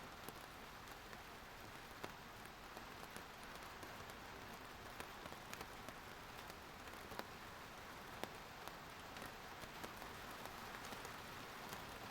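Steady light rain falling, with the sharper taps of single drops striking a hard surface every second or so.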